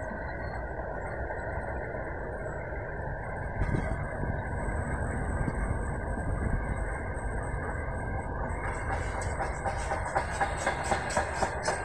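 Container freight train wagons rolling past with a steady rumble of wheels on rail, and a single knock about four seconds in. From about nine seconds the wheels start a quick, regular clickety-clack, roughly three to four clicks a second.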